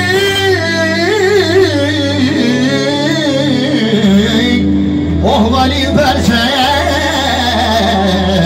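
Music: a solo voice singing a melismatic melody with wavering ornaments over a steady low drone. The phrase breaks off about four and a half seconds in and a new one begins.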